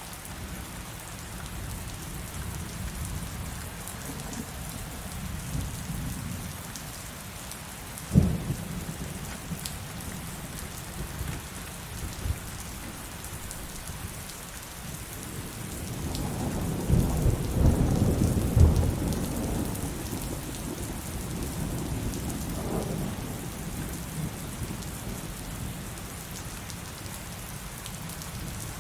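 Heavy rain falling steadily. A sharp thunder crack comes about eight seconds in, then a long, louder rumble of thunder swells up around the middle and fades away.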